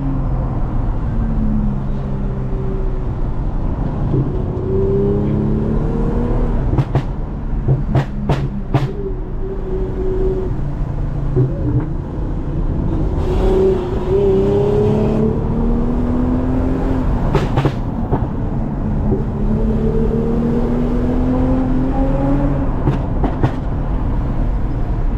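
Toyota Mark X's V6 with a modified exhaust, driving and accelerating: the engine note rises in pitch several times and drops back between the rises. A few sharp knocks come through along the way.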